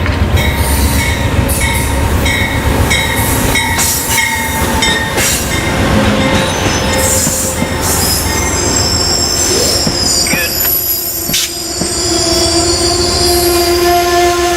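Amtrak passenger train pulling into a station and slowing, its wheels and brakes squealing in several steady high tones. The low rumble of the GE P42DC diesel locomotive passing fades in the first few seconds, and a lower set of steady squeal tones comes in near the end as the train slows toward a stop.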